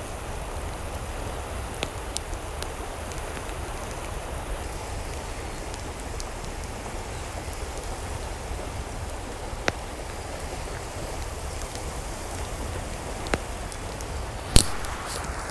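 Steady noise of running or falling water, with scattered sharp ticks and one louder crack about a second before the end.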